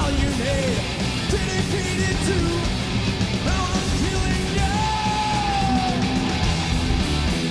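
Loud live heavy metal music with yelling over it, and a long held high note about two-thirds of the way through.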